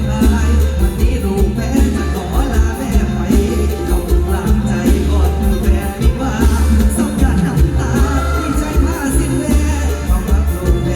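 Live mor lam band music, loud, with heavy bass and a steady drum beat under a sung melody.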